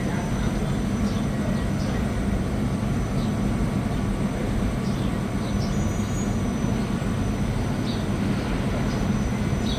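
Steady rushing of a fast mountain river, a continuous low rumble with a hiss above it. A few faint, short, high chirps come through over it.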